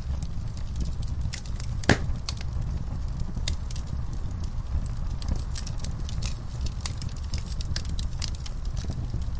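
Fire in a fireplace crackling steadily over a low rumble of flames, with one louder pop about two seconds in.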